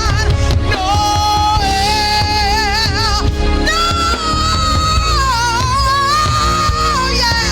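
Woman singing long, high held notes with vibrato, wordless, over a gospel band with a steady bass. She moves up to a higher held note about halfway through, dips, and rises again near the end.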